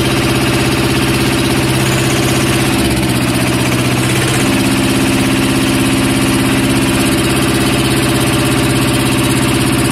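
Swaraj 724 tractor's 24 hp diesel engine running steadily, with its note shifting for a moment about three to four seconds in.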